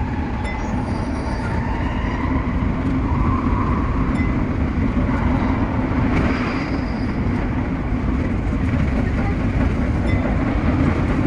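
Tsukuba Express TX-3000 series electric train running along the line: a steady rumble of wheels on rail with a low hum, with no marked change in level.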